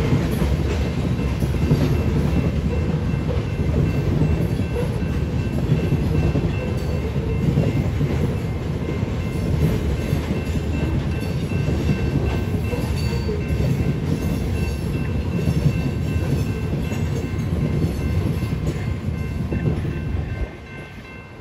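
Covered hopper cars of a Union Pacific grain train rolling past: a steady low rumble of steel wheels on rail, with faint steady high-pitched tones over it. The sound drops off sharply near the end.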